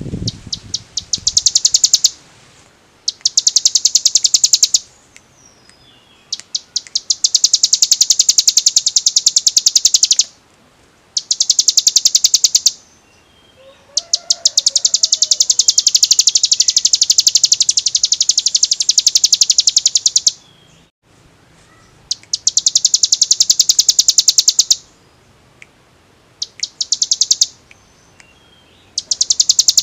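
Ciblek gunung (a prinia) singing its rapid drill-like 'ngebren' trill: runs of very fast, high, clear notes, some under a second and some several seconds long, repeated after short pauses.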